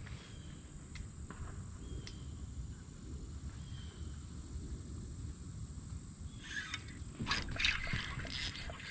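Outdoor pond-side ambience: a steady low rumble with a few faint short chirps, then in the last couple of seconds a run of brief rustling or splashing noises.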